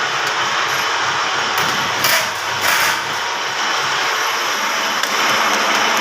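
Steady metal grinding: a grinding wheel working a camshaft, with brief louder surges about two seconds in and just before three seconds.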